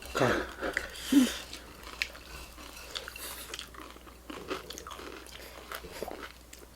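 Close-miked chewing of crunchy food, with many short, crisp crunches.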